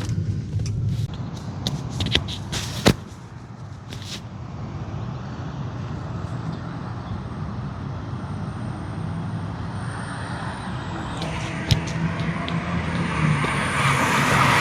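BMW 535xi engine running under way, heard from inside the cabin with the windows down and mixed with wind noise. A few sharp clicks come in the first four seconds, and the engine and wind noise grow louder near the end.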